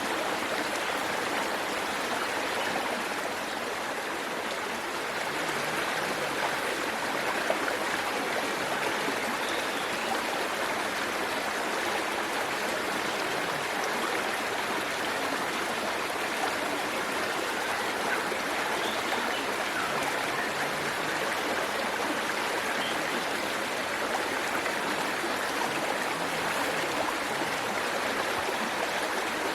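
Waterfall water rushing and splashing steadily into a stream, a continuous even noise.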